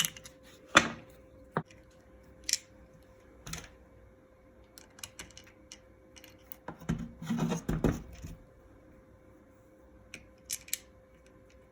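Scattered clicks, taps and knocks of hand tools and small metal parts being handled, with a denser bout of clatter about seven to eight seconds in. A faint steady hum runs underneath.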